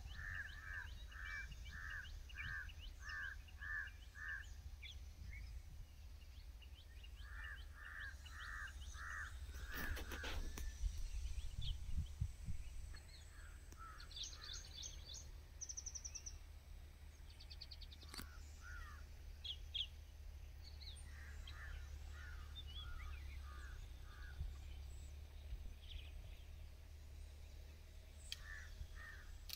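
Birds calling: one repeats a short call about twice a second in runs of five to seven, again and again, while others chirp and trill higher. A brief loud noisy burst comes near the middle, over a low steady rumble.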